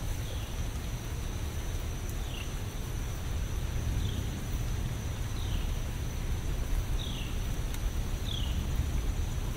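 Steady rain hiss with a low rumble underneath, while a bird repeats a short falling chirp about every second and a half, six times, over a thin steady high whine.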